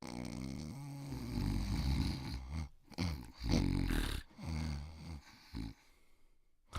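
A series of about six low, rough vocal sounds from a deep voice, each lasting up to a second or so, with short gaps between them.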